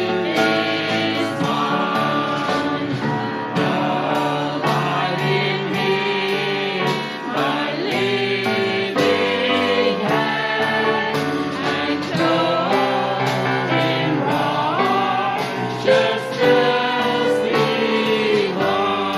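A hymn sung by many voices together to a band accompaniment, with drums keeping a steady beat.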